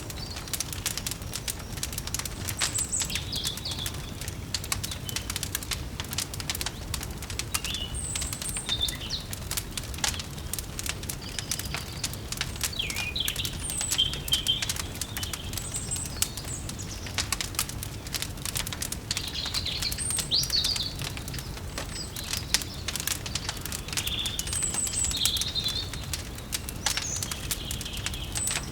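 Wood fire crackling with dense, irregular pops over a low steady rumble, while small birds chirp on and off in short calls.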